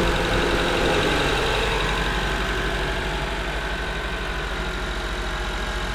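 2011 Honda CR-V's K24 2.4-litre four-cylinder engine idling steadily, its idle easing down a little over the first few seconds. It is being run after a coolant refill so the cooling system bleeds its air and the oil circulates.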